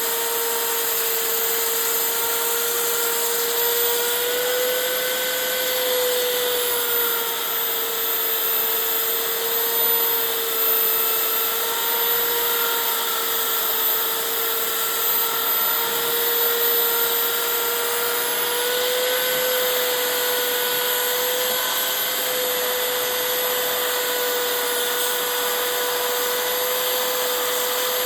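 Electric motor running steadily with a high whine that wavers slightly in pitch.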